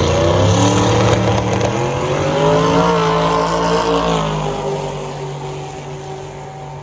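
Drag race car engine at full throttle accelerating down the strip. Its pitch climbs and falls back twice, as at gear changes, then holds steady and fades as the car pulls away.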